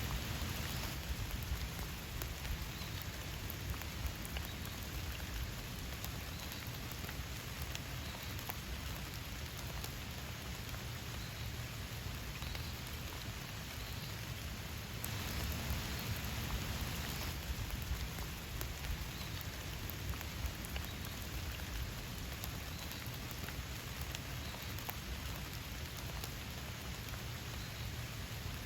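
Steady rain falling, with a dense patter of individual drops, swelling briefly about halfway through.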